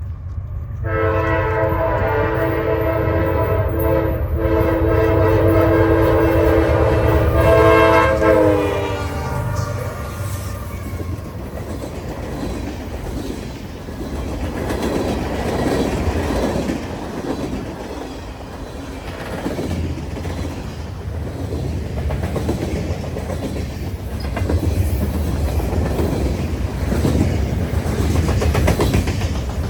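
Freight train locomotive blowing its multi-chime air horn in one long chord of several tones, broken briefly once, that drops in pitch as the locomotive passes. Then the train rolls by with a steady rumble and the clickety-clack of wheels over rail joints.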